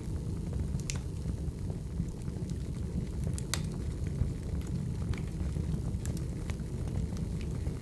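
Firewood burning: a steady low rumble of flames with sharp crackling pops scattered irregularly through it.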